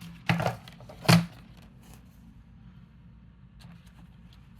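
Paper cutter trimming the edge of a sheet: two short, loud cutting sounds about a second apart, then a few faint ticks.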